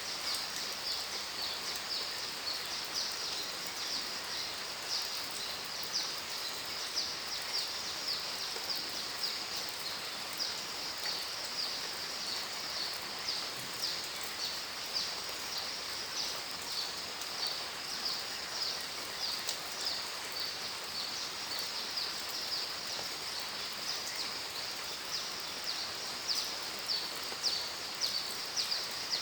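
Steady rain ambience: an even hiss under dense, rapid high-pitched chirping that goes on without a break.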